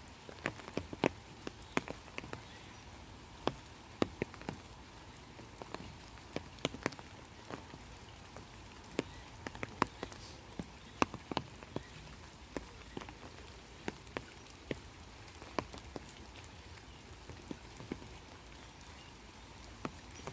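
Rain falling, with many separate raindrops landing close by as irregular sharp taps over a faint steady patter.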